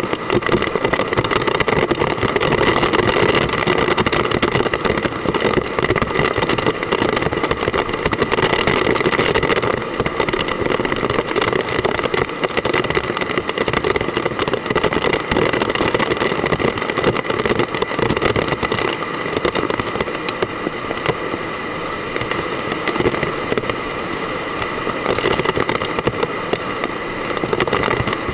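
Heavy typhoon rain pelting down, a dense steady crackle of drops with wind, easing slightly about two-thirds of the way through.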